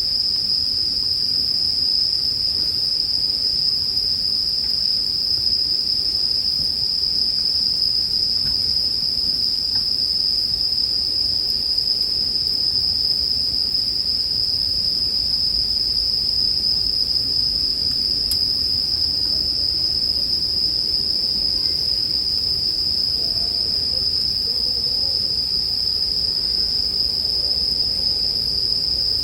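Bell crickets (suzumushi) singing in a continuous, steady high-pitched ringing chorus, with a faint low crackle of a campfire underneath.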